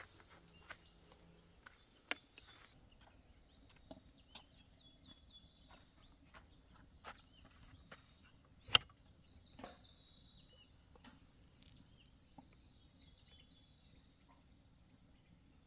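Birds chirping in short runs of high notes, with scattered sharp clicks and one louder knock about nine seconds in.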